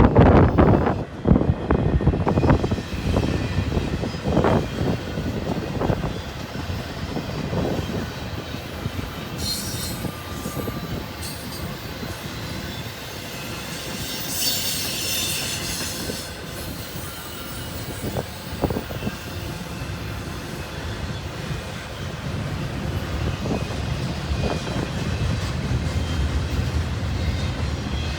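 Intermodal freight train cars rolling past, their steel wheels clacking over rail joints, dense at first and then thinning out, with a steady rolling rumble. Short high-pitched wheel squeals come about ten and fifteen seconds in.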